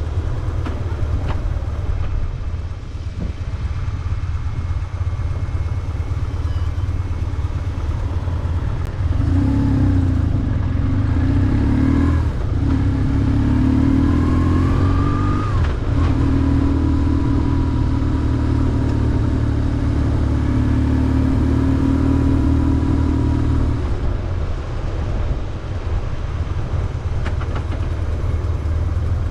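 BMW R1150GS's air-cooled boxer twin running under way. It pulls harder from about nine seconds in, the revs climb and then drop sharply at a gear change, and it settles to a steady pull before easing off near the end.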